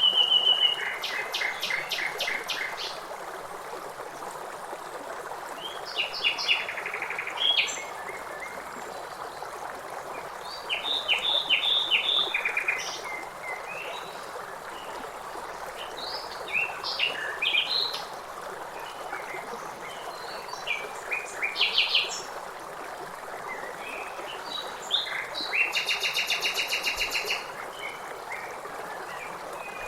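Songbirds calling and chirping in short phrases every few seconds, some as rapid trills, over the steady rush of river water.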